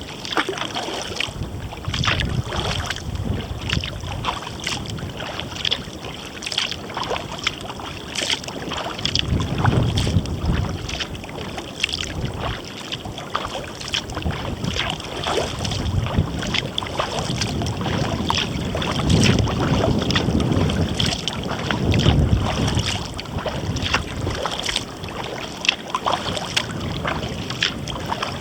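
Kayak paddle dipping and splashing, with water dripping off the blades, while gusty wind buffets the microphone in low swells every few seconds.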